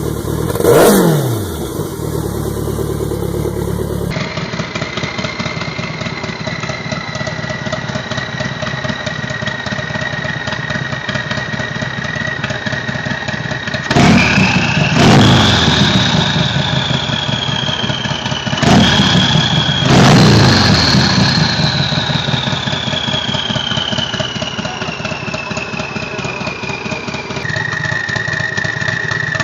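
Turbocharged engine revved once, then idling with a steady high turbo whine. It is blipped several times, and after each blip the turbo whistle climbs and then slowly falls away as the turbo spools down.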